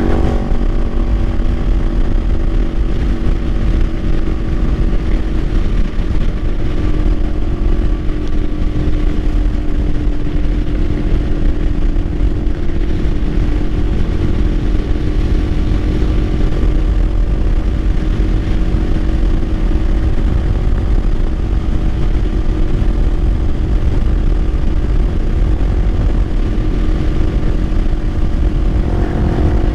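Kawasaki Ninja 500's parallel-twin engine running at a fairly steady cruising speed while the bike is ridden, with heavy wind rumble on the microphone.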